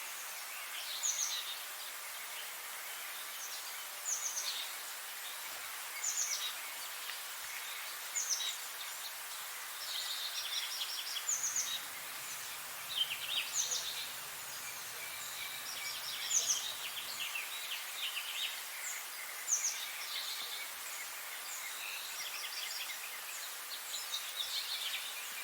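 Birds singing in the morning over a steady background hiss. One bird repeats a short call that slides down in pitch about every two seconds, and other birds trill in between.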